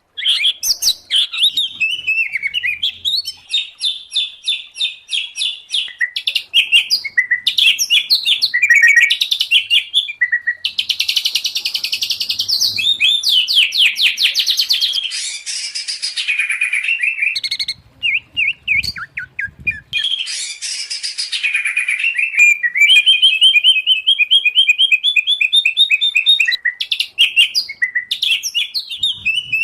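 Songbirds singing loud, varied songs: white-rumped shama, oriental magpie-robin and greater green leafbird song combined, with fast trills of repeated notes and whistles, a harsh buzzy stretch about halfway through and a brief lull a little after.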